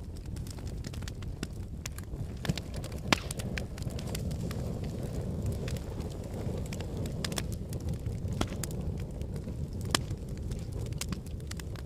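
Wood logs burning in a fireplace: a steady low rumble of flames under frequent sharp crackles and pops. The loudest pops come about 2.5 and 3 seconds in and again about 10 seconds in.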